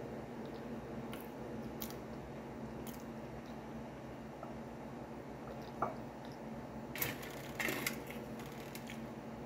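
Soft chewing and small mouth clicks over a steady low hum, then, about seven seconds in, a few short scraping rattles as fingers pick at biscuits on a metal plate.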